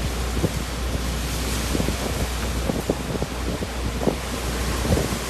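Typhoon-force wind blowing steadily and buffeting the microphone with a deep rumble, with a few brief knocks in the gusts.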